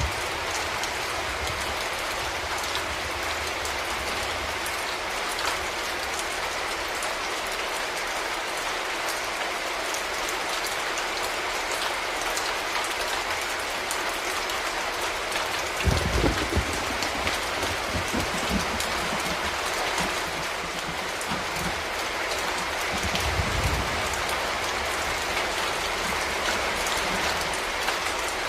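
Steady rain falling, an even hiss of many drops. Two brief low thumps break through, one about halfway and one a few seconds later.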